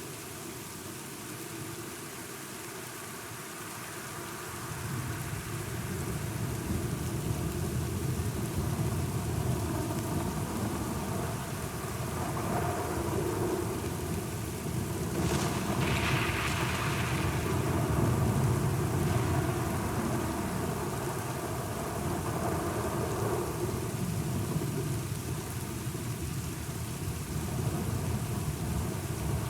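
Steady rain with rolling thunder: a low rumble swells about four seconds in, is loudest around the middle with a sharper crack, and then slowly dies back under the rain.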